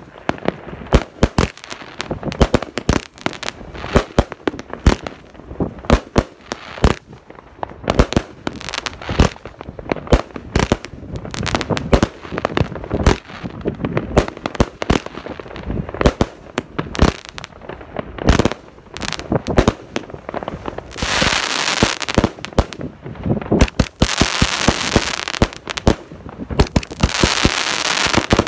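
Lumberjack firework battery firing shot after shot, a rapid, irregular run of sharp bangs. About three-quarters of the way in the bangs give way twice to a dense crackling hiss as crackling stars break overhead.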